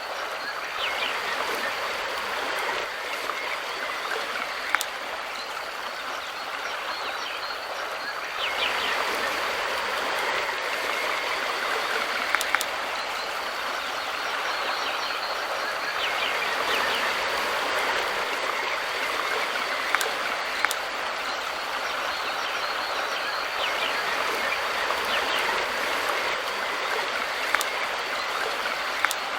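Mountain river flowing with a steady rushing sound that grows louder about eight seconds in, with a few sharp ticks of splashing water.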